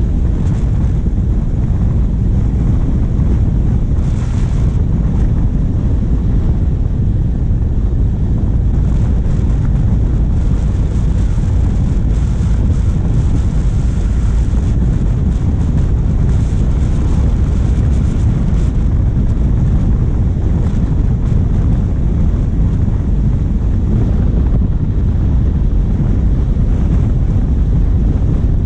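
Wind buffeting the bonnet-mounted camera's microphone on a moving vehicle: a loud, steady low rumble, with the vehicle's diesel engine running beneath it.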